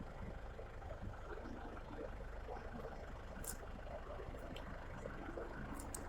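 Steady low background rumble like distant traffic, with a few short, high chirps from European goldfinches, one about three and a half seconds in and another near the end.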